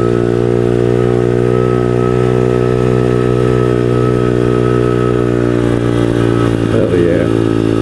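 Pit bike's small single-cylinder engine running under way at steady revs, its pitch holding nearly level throughout.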